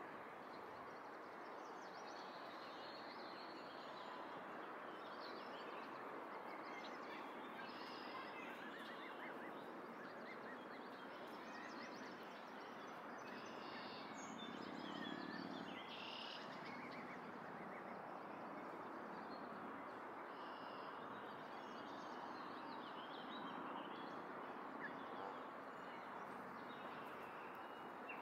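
Faint scattered bird calls and chirps over a steady background hiss, with one slightly louder call about halfway through.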